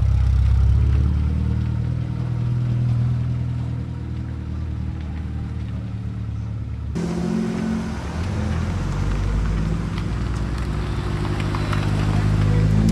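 Car engine running at low, steady revs. About halfway through the sound shifts abruptly, and near the end the engine note starts to rise as it revs up.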